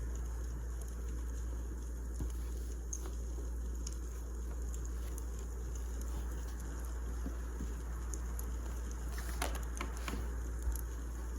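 Wood fire crackling: scattered small pops and snaps over a steady low rumble, with a cluster of sharper pops about nine to ten seconds in.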